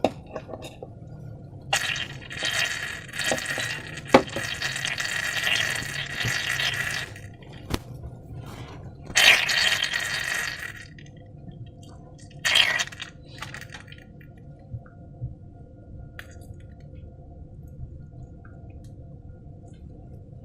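Slime being worked with balloons: three bursts of wet, squishy noise, the first lasting about five seconds and the others shorter, with a few sharp clicks, over a steady low hum.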